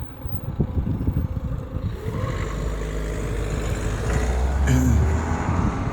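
Motor vehicle running close by on the road, its rumble building to its loudest a little over four seconds in and then easing off.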